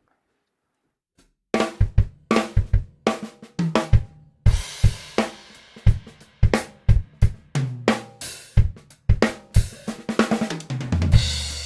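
Drum kit played in a groove to try out a snare drum freshly tuned tight with a Remo Emperor Vintage coated head, with bass drum, hi-hat and cymbals. After about a second and a half of quiet the strokes begin, cymbals ring under them from the middle on, and a cymbal crash rings near the end.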